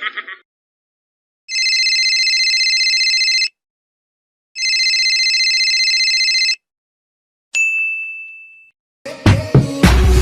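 A telephone ringing twice, each ring a two-second rapid trill with a pause of about a second between, followed by a single bright ding that dies away. Music with a beat starts near the end.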